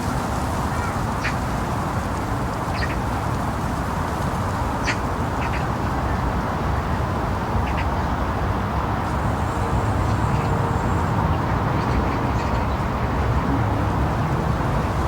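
Ducks quacking in short, scattered calls over a steady low rumble.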